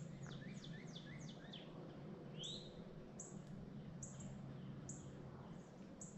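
Small birds chirping in the woods. A quick run of short downward-sweeping chirps comes first, then a rising call, then scattered short high chirps, all faint over a low steady hum.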